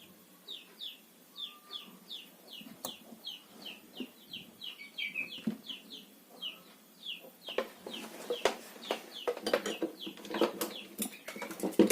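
A bird chirping: a steady series of short falling chirps, about two or three a second. From about two-thirds of the way in, sharp clicks and taps join them.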